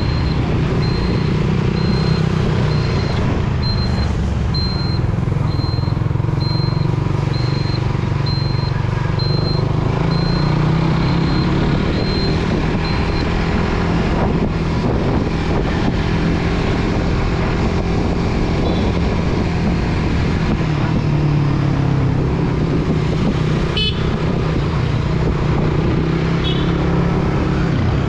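Suzuki GSX-R150's single-cylinder engine running steadily while riding in city traffic. A high-pitched beep repeats a little under twice a second through the first half.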